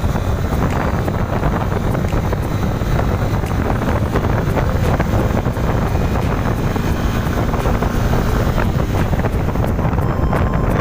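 Wind buffeting the rider's microphone on a moving motorcycle, with engine and road noise underneath, steady throughout.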